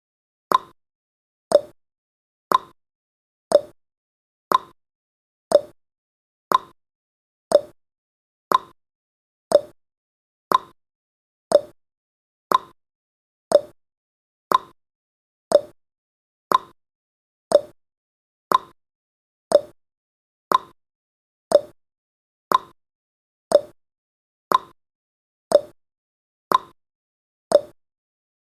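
Countdown timer's clock-tick sound effect: one sharp tick each second, alternating higher and lower in pitch like a tick-tock, marking off the seconds.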